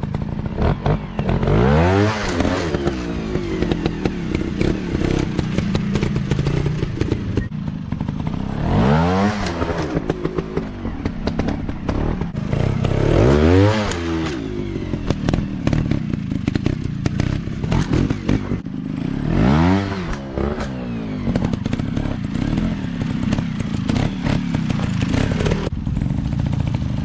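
Off-road dirt bike engines running hard. The throttle is opened repeatedly, about five times, each one a rising rev. Frequent sharp knocks and clatter are heard throughout.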